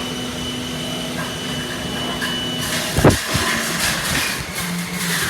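Heavy rain falling, a loud steady hiss, with a faint hum under it and a brief thump about three seconds in.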